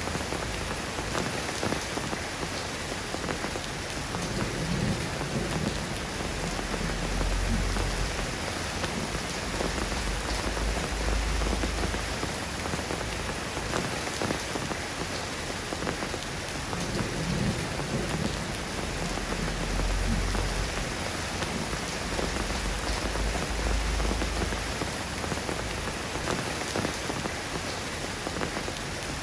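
Steady soft rain falling on a surface, a continuous hiss of drops, with low rumbles swelling every few seconds.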